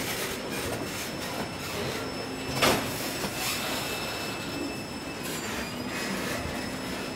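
Loaded bauxite freight wagons rolling past on steel rails, with thin, high-pitched wheel squeal running throughout. A single loud clank comes about two and a half seconds in.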